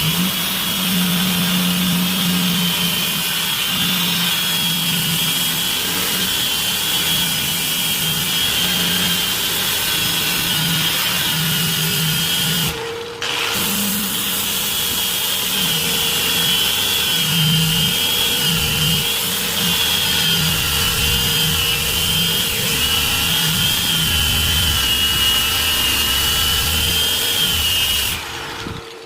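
Handheld electric power tool running steadily under load, with a high whine that wavers in pitch as the work presses on it. It stops briefly about halfway through, then runs again and cuts off just before the end.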